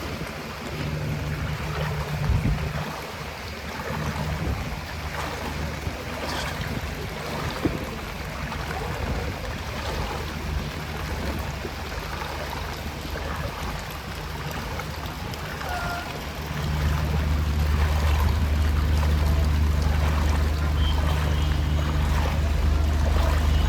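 Floodwater sloshing and splashing on a street, with a motor engine running close by; the engine hum comes in briefly near the start and grows louder about two-thirds of the way through.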